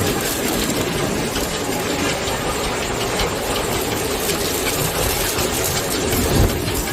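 Steady industrial machine noise in a feed mill: an even, rushing drone with a hum that holds level, with one brief louder bump near the end.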